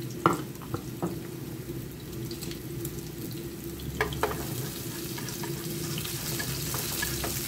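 Chopped shallots and scallions sizzling in hot oil in a nonstick frying pan, with a steady frying hiss. They are stirred with wooden chopsticks, which give a few light taps against the pan.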